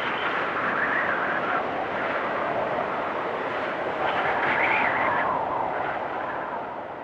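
Storm wind blowing in gusts with a whistling edge, swelling about a second in and again around four to five seconds in, then easing off near the end.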